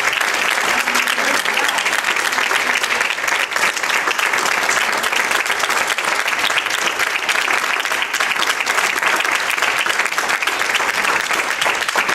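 An audience applauding steadily, with many hands clapping at once.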